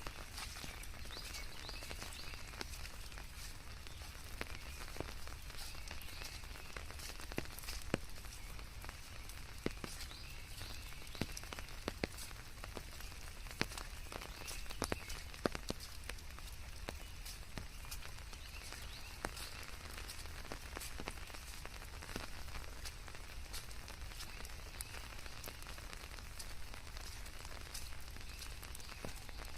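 Steady rain with many scattered, sharp drop hits over a constant low rumble.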